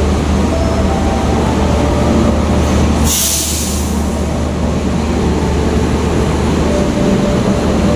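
Train rumbling steadily at the station platform, with a short burst of hissing air, like a brake or air release, about three seconds in.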